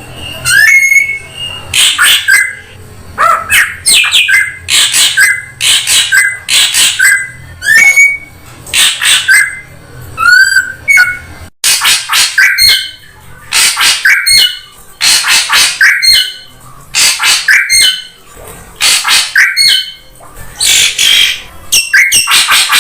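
Drongo (srigunting) lure recording: a fast, unbroken string of loud, harsh, rasping calls about once a second, mixed with short upward-sweeping whistles and a quick run of chirps.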